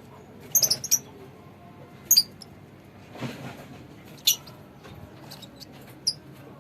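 Lovebirds giving short, shrill, high-pitched chirps: a quick burst of several about a second in, then single sharp chirps every couple of seconds, with a soft rustle in between.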